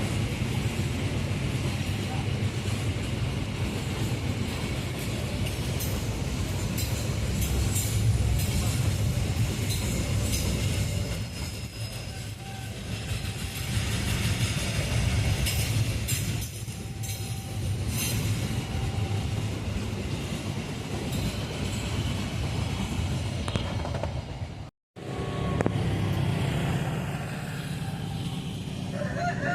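Diesel locomotive-hauled train running past, a steady low engine drone with rapid clicking and knocking of wheels over the rails, interrupted by a short cut about two thirds of the way through.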